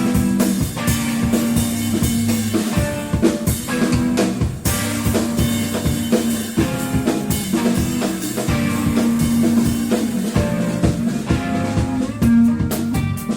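Live band jam with a drum kit and electric guitar playing an instrumental groove, dense drum hits with rimshots under held guitar notes.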